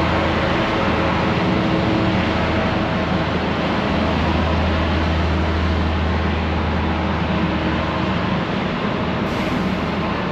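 A train's diesel engine running with a steady, loud low drone over rail noise. The drone eases slightly near the end.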